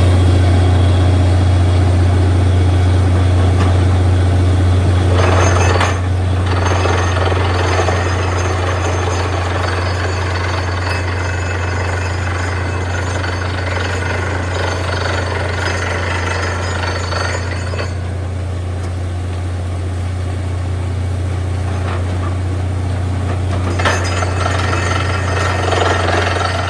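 Borewell drilling rig at work: a steady low engine drone under continuous rapid rattling hammering from the drill.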